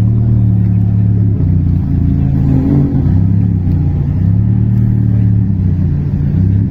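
Ferrari Roma Spider's twin-turbo V8 running at low revs as the car rolls slowly past, a steady low rumble that wavers a little in pitch, with a brief rise a little before the middle.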